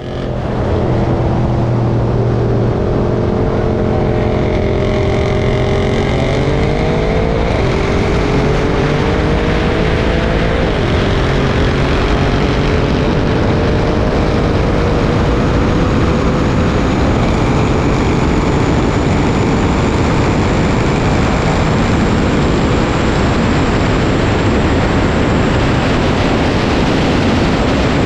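Twin-turbo 4.0-litre V8 car accelerating hard through the gears, its pitch climbing and dropping back at upshifts about six, seven and a half and eleven seconds in. After that it fades into steady loud wind and road rush.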